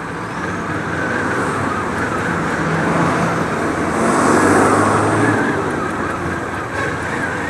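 Kawasaki Ninja 400's parallel-twin engine running during a ride in city traffic, mixed with road and surrounding traffic noise; the noise swells to a peak about halfway through, then eases.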